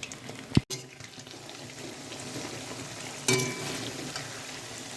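Chicken pieces deep-frying in hot oil with a steady sizzle. There is a short knock about half a second in, and a louder burst of sizzling a little past three seconds.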